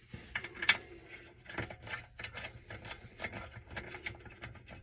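Light irregular clicks and taps of hand tools and small metal engine parts being handled during disassembly.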